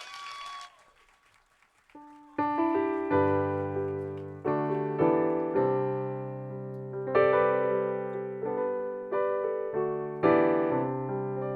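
Piano music: a slow series of chords, each struck and left to ring out before the next. It starts about two seconds in, after a brief hissing sound that cuts off under a second in and a short pause.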